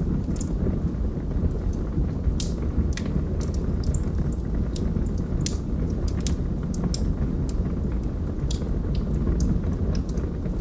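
Wood logs burning in a fireplace: a steady low roar of the fire with irregular sharp crackles and pops from the burning wood.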